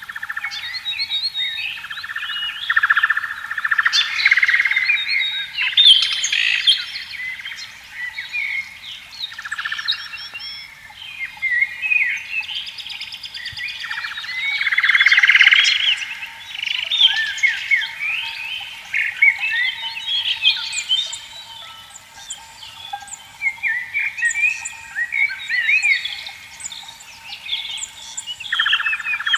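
Several birds chirping and singing in quick short calls and glides, with frogs calling in pulsed bursts now and then and a faint steady high tone underneath.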